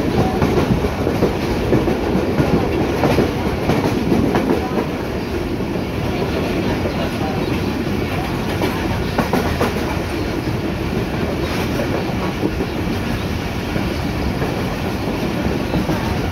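Passenger train running, heard from inside a carriage: a steady rumble of wheels on track with scattered clicks over the rail joints.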